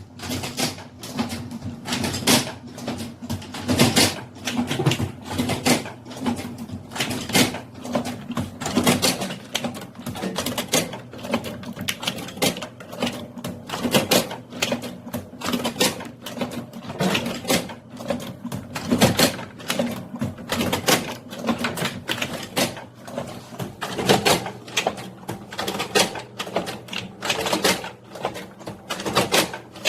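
Royal jelly harvesting machine at work: a low steady motor hum with many quick, irregular clicks and taps.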